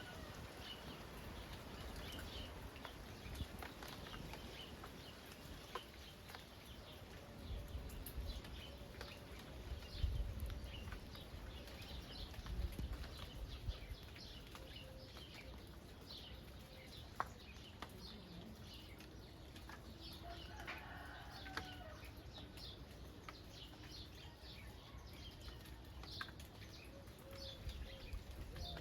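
Light rain falling in open countryside, with many small birds chirping throughout and scattered drop ticks. A lower, longer bird call sounds about twenty seconds in, and low gusts of wind rumble on the microphone around ten seconds in.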